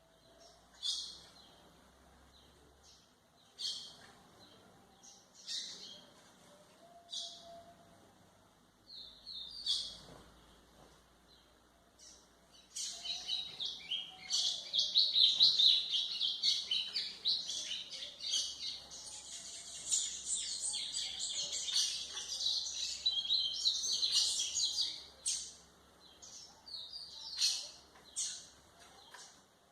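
White-throated seedeater (golinha) singing: short high chirped phrases every second or two, then a long, rapid, continuous twittering song for about twelve seconds, then short phrases again. This is a training song, played for young captive birds to learn from.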